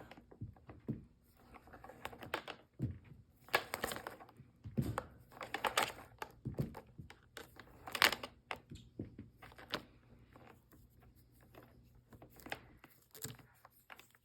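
Vacuum power cord being pulled hand over hand through the plastic cord holder on the handle, making irregular rubbing, scraping and clicking noises with one sharper knock about eight seconds in.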